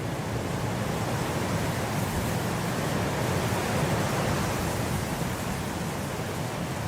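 Blizzard wind blowing in a steady rush, swelling in a gust about halfway through and easing off again.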